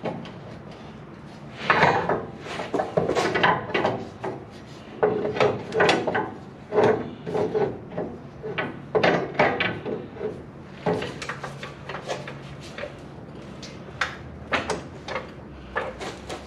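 Irregular knocks, clatter and scraping of tools and parts being handled while work on a truck's front suspension begins.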